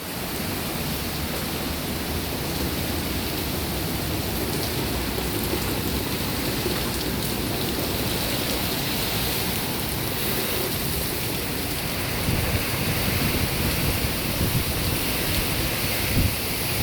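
Heavy hurricane rain and wind, a steady rushing noise. In the last few seconds gusts buffet the microphone with irregular low thumps.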